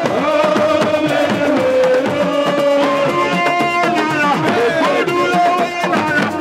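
Loud drumming with many quick hand-drum strokes under a voice singing a gliding melody.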